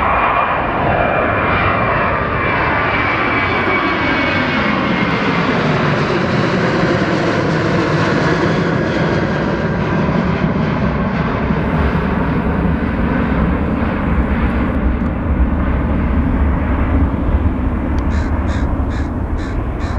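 Boeing 737 jet airliner's engines at takeoff power as it rolls past, a loud steady jet noise whose tones sweep downward and then curve back up as the aircraft goes by.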